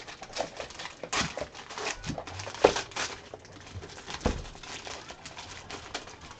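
Rustling and crinkling of a trading card pack's packaging as it is opened and the cards handled, an irregular run of crackles with a sharper one near the middle.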